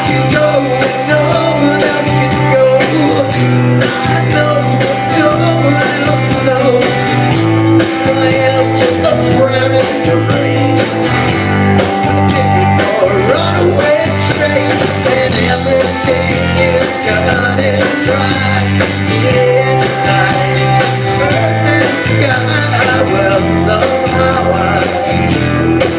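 Rock band playing live: electric guitars, bass and drums, with a sung lead vocal over them.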